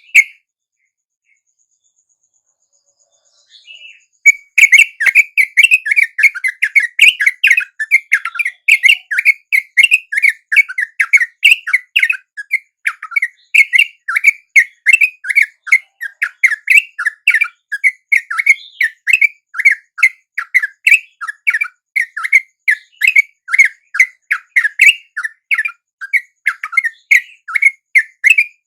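Yellow-vented bulbul (trucuk) call, a rapid, unbroken chatter of short chirping notes, several a second. It starts loud about four seconds in after a short silence.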